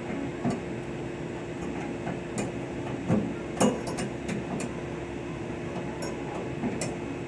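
Steady mechanical hum of running machinery, with scattered light clicks and knocks from metal parts and tools being handled.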